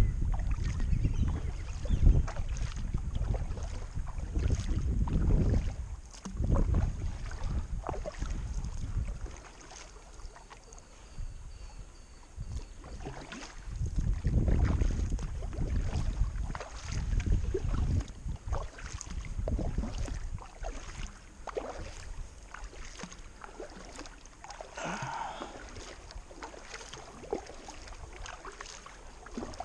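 Kayak paddle strokes splashing and dripping in the water, with gusts of wind buffeting the microphone, heaviest in the first few seconds and again midway.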